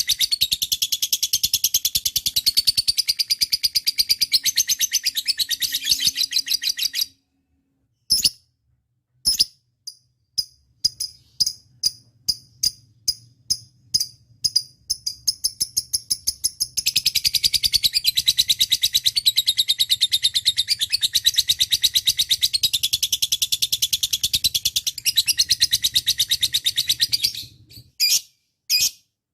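Lovebird singing: a long, rapid chattering trill, then a run of separate sharp chirps about two a second, then another long trill of about ten seconds, ending in a few single chirps.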